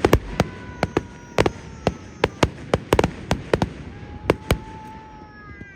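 Fireworks display: an irregular run of sharp bangs and cracks from bursting shells, with a few thin whistling tones that slide slowly down in pitch.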